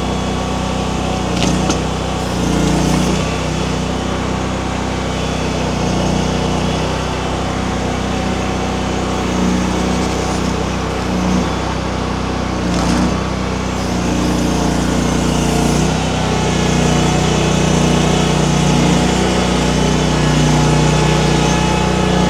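Mini skid steer engine running steadily, its note swelling and easing several times as the hydraulics are worked, louder in the last third, with a couple of brief sharp knocks.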